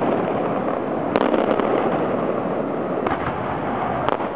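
Aerial fireworks going off: sharp bangs of bursting shells about a second in, around three seconds in and again near the end, over a continuous dense rush of noise.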